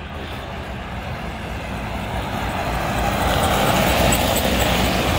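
Heavy truck engine rumble and road noise, swelling louder over the first three seconds and then holding steady.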